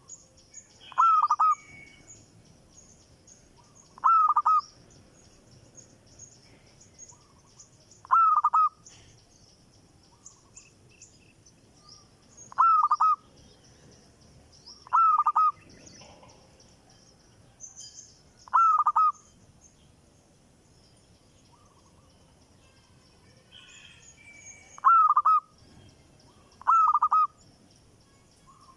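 A bird calling a short, loud note eight times at irregular gaps of two to six seconds, with faint high chirping of other birds throughout.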